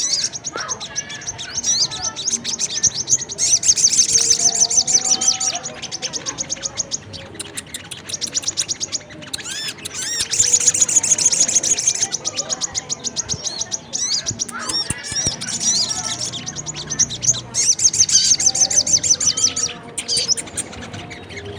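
Bird-lure recording of sogon and kolibri kelapa (brown-throated sunbird) calls: rapid, high, shrill chirping trills in bursts of a few seconds, separated by short pauses, with fainter lower whistled notes between them.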